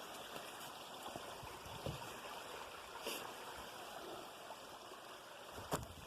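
Faint steady rush of a stream's running water, with a few soft knocks and one sharp click near the end.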